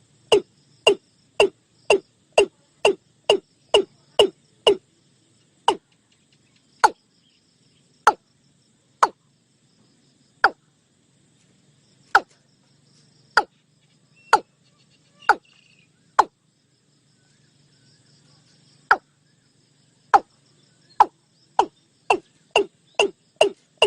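Watercock (cúm núm) calling: a long series of short, sharp notes, each dropping in pitch. The notes come about two a second, slow and spread out through the middle, then quicken again near the end.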